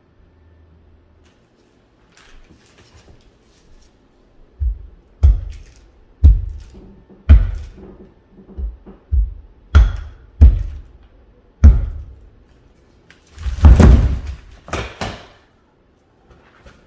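A series of about ten heavy thuds at irregular intervals, starting some four and a half seconds in, followed by a longer, louder cluster of knocks near the end.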